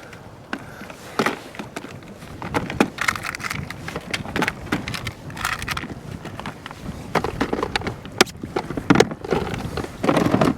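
Irregular clicks, knocks and rattles of fishing tackle being handled aboard a kayak, over steady water and wind noise.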